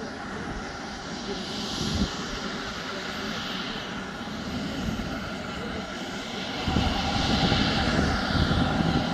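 MD 902 Explorer police helicopter running, its twin turboshaft engines giving a steady whine over a broad rotor and exhaust noise; about seven seconds in, a heavier low rumble sets in and the sound grows louder.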